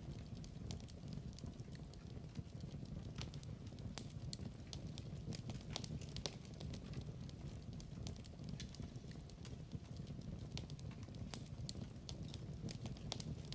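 Wood fire crackling steadily in a fireplace, with a low rumble of flame under scattered sharp pops and snaps.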